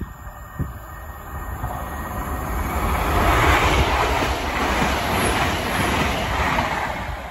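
A high-speed train passing through at speed. A rush of wheel, rail and air noise builds over a couple of seconds, stays loud for several seconds, then drops away sharply near the end.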